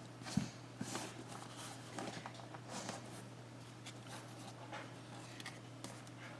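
Faint handling noises: soft rustles and light taps of paper, over a steady low hum.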